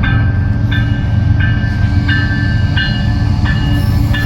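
Kansas City Southern diesel locomotives rumbling past, with a bell ringing steadily about every two-thirds of a second.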